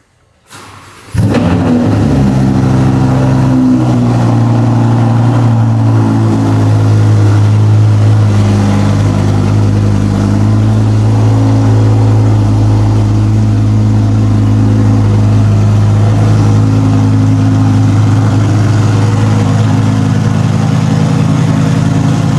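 Audi R8's V10 engine, through a newly fitted Quicksilver Titan exhaust, starting up about a second in, briefly flaring and then settling into a loud, steady idle.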